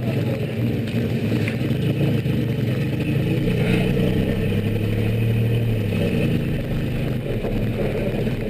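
A DeLorean DMC-12's V6 engine running at low speed as the car creeps along, a steady low hum that swells slightly about halfway through.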